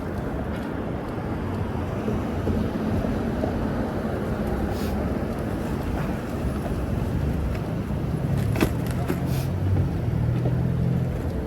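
Road traffic noise on a city street. A motor vehicle's engine hum grows louder about eight seconds in, with a few short clicks around the same time.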